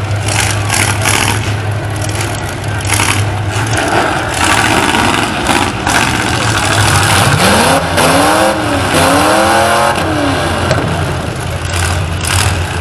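Demolition derby truck engines running, with one revved up and down several times about halfway through over a steady engine drone.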